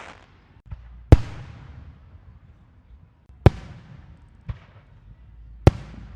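Fireworks exploding: five separate bangs a second or two apart, three loud and two weaker, each followed by a short echoing rumble.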